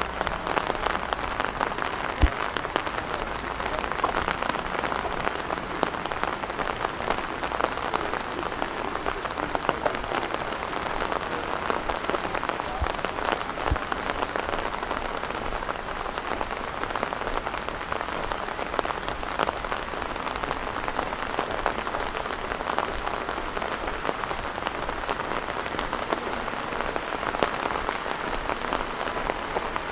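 Steady rain, heard as an even hiss made of many small drop hits. A brief knock comes about two seconds in and another near the middle.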